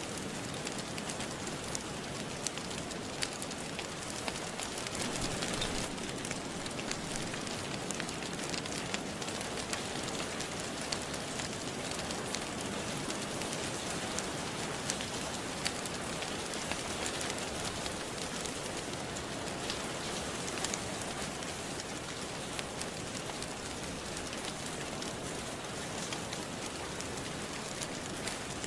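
Steady rain with a wood fire crackling: an even hiss scattered with sharp little pops and snaps.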